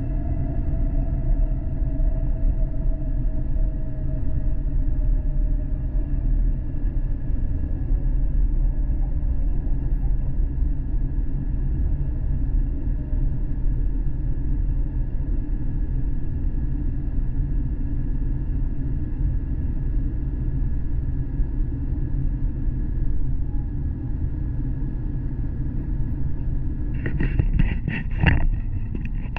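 An 800 Series Shinkansen running at speed, heard from inside the passenger car as a steady low rumble with faint whines. One whine falls slowly in pitch over the first several seconds as the train begins slowing for its station stop. A short run of sharp clatters comes near the end.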